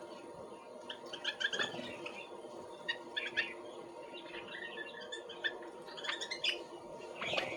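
Several small birds chirping in short, quick calls, some overlapping, coming in clusters, over a faint steady hum.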